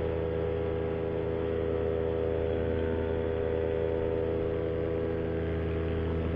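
Paramotor's Vittorazi Moster 185 single-cylinder two-stroke engine and propeller running steadily at cruise power in flight, an even drone that does not change.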